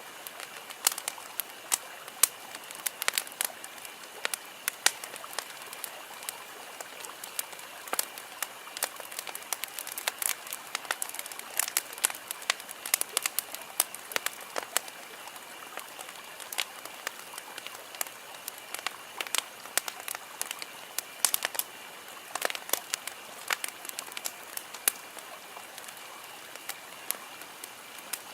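Wood campfire crackling and popping: frequent irregular sharp snaps over a steady hiss of burning, with a faint steady high-pitched tone behind.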